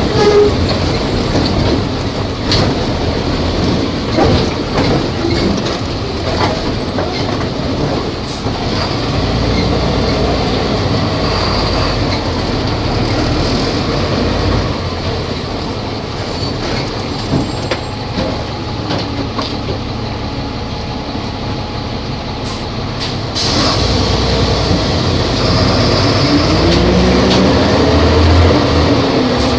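Volvo B270F bus running under way, a steady engine and road noise with scattered clicks and rattles. It gets louder about two-thirds of the way in, and the engine note rises near the end as it accelerates.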